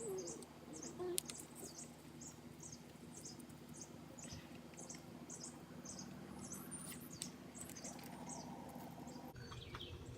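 A small bird chirping faintly, short high chirps repeating about every half second, with a few faint clicks among them.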